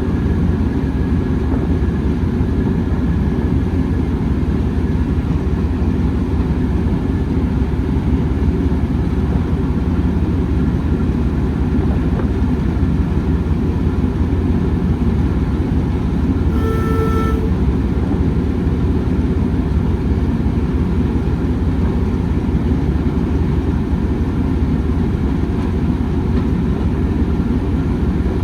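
A train running with a steady low rumble, and one short toot a little past the middle.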